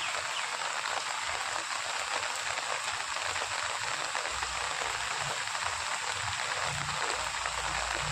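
Heavy rain falling steadily, a dense hiss of many small drops hitting surfaces, with a faint low rumble coming and going underneath from about halfway through.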